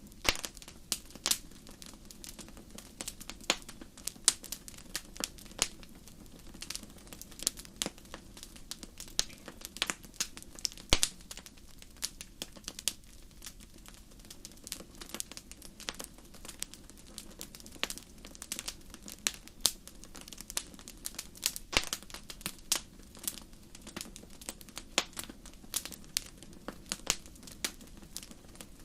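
Wood fire burning: a steady low rumble with irregular sharp crackles and pops, several a second, some louder snaps scattered through.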